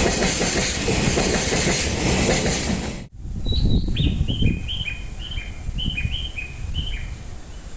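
Freight train rolling past with steady wheel-and-rail clatter, cut off suddenly about three seconds in. Then a quieter low rumble and a string of short, high, slightly falling tones, about two or three a second.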